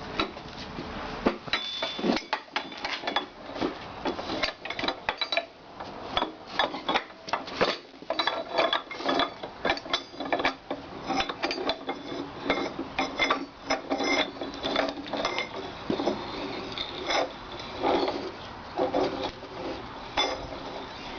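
Iron parts of an antique German blacksmith's post vise clinking, knocking and scraping against each other in irregular strokes as the vise is reassembled and its screw fitted, some knocks leaving a brief metallic ring.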